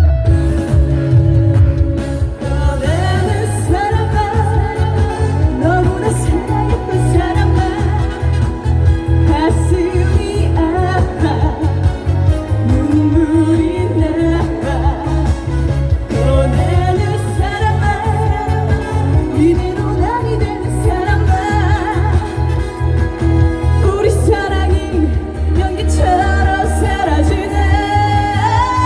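A female singer's voice singing a Korean trot song over an amplified band backing track with a steady bass beat.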